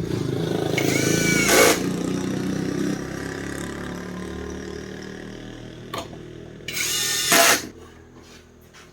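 Power drill running in two short bursts, about a second and a half in and again near seven seconds, over a low steady hum that fades away.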